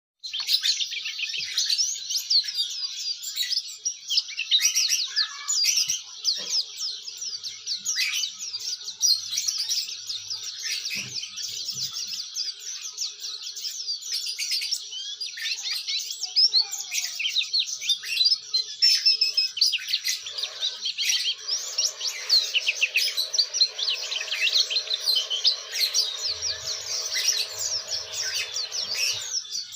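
White-eye (pleci) singing a continuous, rapid twittering song of high chirps and trills.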